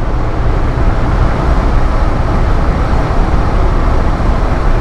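Suzuki DR650 single-cylinder engine running under way, with steady heavy wind and road rumble.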